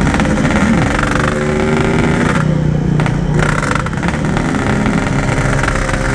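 Yamaha RX-King's 135cc two-stroke single-cylinder engine running on the move, its pitch rising and falling with the throttle. The engine is down on power and falters when pulled; the rider puts this down to a carburettor that needs setting.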